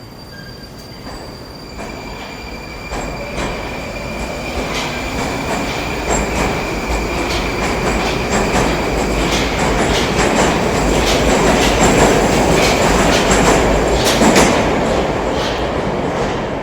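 Moscow Metro 'Moskva' (81-765) metro train running through the station, growing steadily louder to a peak near the end and then easing off. Wheels click over rail joints throughout, over a deep rumble and a steady high whine.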